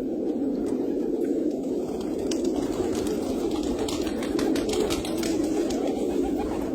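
Many penned birds calling together in a steady, dense murmur, with scattered light clicks over it.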